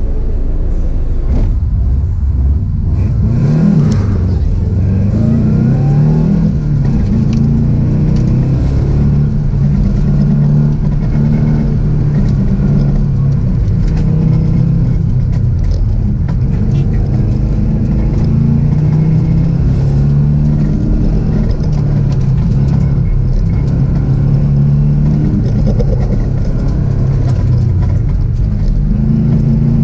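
Car engine heard from inside the cabin, revving up hard from a standing start a few seconds in, then rising and falling in revs as the car accelerates and slows through an autocross course of tight turns.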